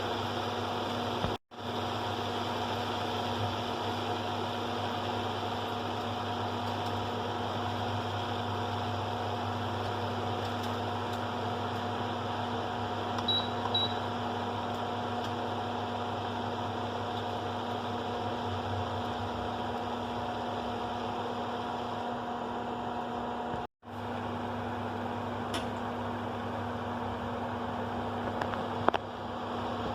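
Steady whirring hum of a kitchen appliance's electric fan motor, with two short high beeps about halfway and two brief cut-outs where the sound drops away.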